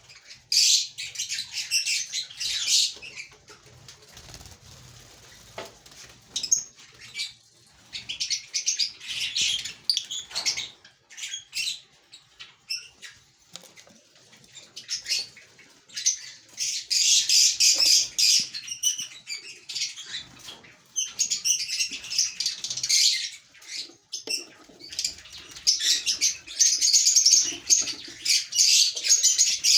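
Lovebirds chattering: shrill, rapid chirps in bursts of a second or few with short lulls, the chatter becoming nearly continuous toward the end.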